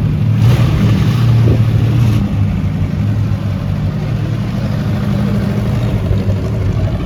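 A car engine running with a steady low note. A rush of noise runs for the first couple of seconds, starting about half a second in.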